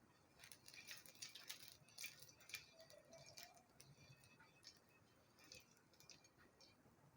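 Faint, irregular crackling and clicking of oil being spread on a hot tawa, densest in the first three seconds or so, then only a few scattered ticks.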